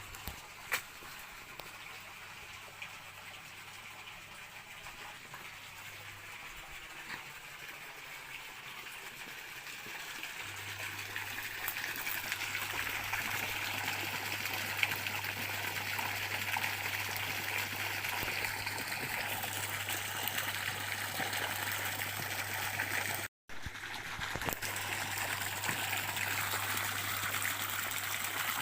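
Stream water running and trickling steadily, growing louder about a third of the way in, with a brief cut-out of the sound about four-fifths through.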